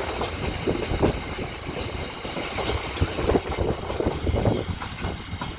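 Freight train wagons rolling past, a continuous rumble with irregular clanks and knocks from the wheels on the rail joints.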